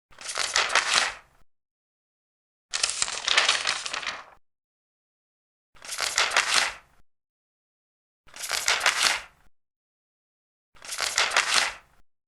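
Large paper pages being turned one at a time: five dry rustling swishes, each lasting about a second, roughly two and a half seconds apart, with silence in between.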